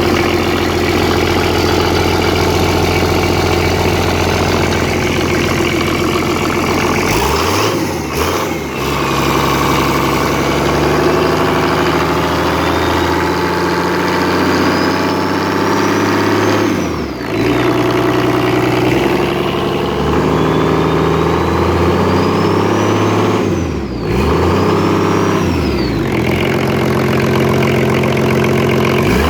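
VM 65 B six-cylinder turbo diesel engine idling steadily, then revved up and let back down four times, two of them long, slow climbs. A high turbocharger whine rises with the revs and falls away each time the throttle closes.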